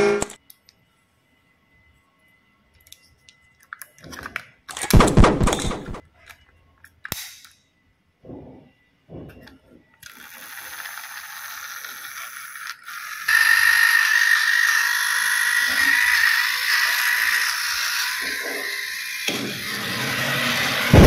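Plastic toy pieces clattering, then a small battery-powered toy train motor and its gears whirring steadily, with a steady high whine from about midway on.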